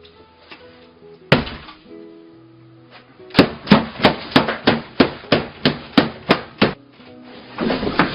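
Over background music, one loud sharp knock, then a fast run of about a dozen sharp knocks, roughly three a second, lasting about three seconds, and a short noisy burst near the end.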